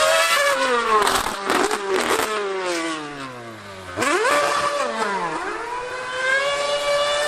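High-revving V8 of a 2013 Formula 1 car, loud. Its note falls steeply for about four seconds, with a few sharp cracks between one and two seconds in. Then it jumps back up, dips briefly, and climbs again.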